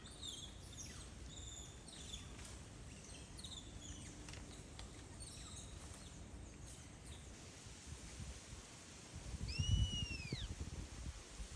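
Forest birds calling: a quick series of short chirped and whistled notes over the first few seconds, then one clear arched whistle, rising then falling, about nine and a half seconds in. Low rumbling noise on the microphone runs underneath and swells to its loudest at the same time as the whistle.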